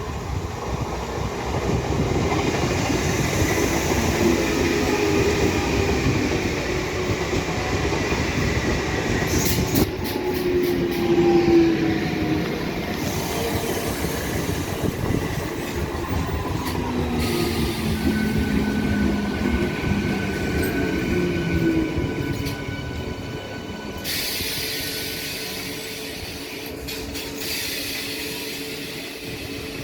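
Electric multiple unit (EMU) local train running on the rails: a steady rumble of wheels with squealing tones that slide slowly down in pitch.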